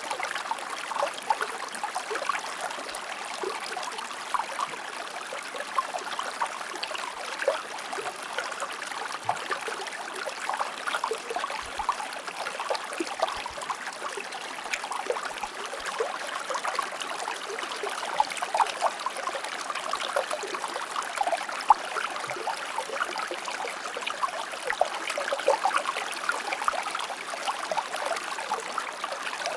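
A shallow stream or small river flowing steadily, a continuous babble and trickle of water over stones, with many small splashes and plops dotted through it.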